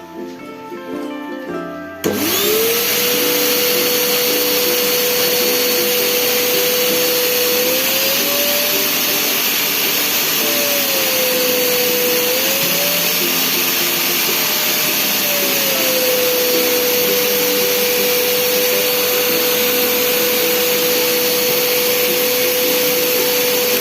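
Briefly music, then a Panasonic MC-CG302 corded vacuum cleaner's motor switches on about two seconds in, spins up and runs steadily with a loud whine. It is running again after its blown fuse was replaced. The whine rises in pitch twice in the middle and settles back down.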